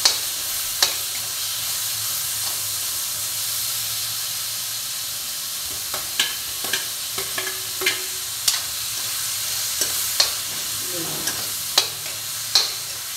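Diced potatoes sizzling in hot ghee in a metal kadhai, with a steady frying hiss. A steel spoon stirs them, clinking and scraping against the pan now and then, more often in the second half.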